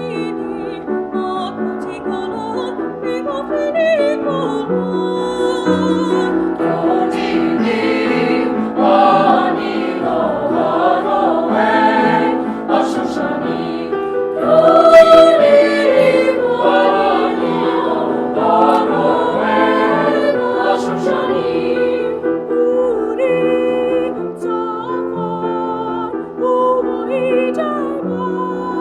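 High school choir singing in sustained chords, swelling to its loudest about halfway through.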